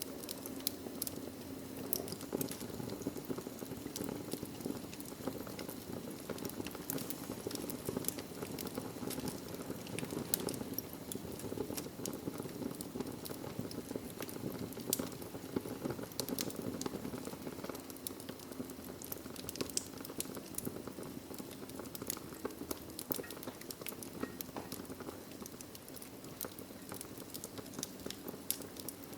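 Wood fire burning in a fireplace: a steady low rush of flames with frequent irregular crackles and pops from the logs.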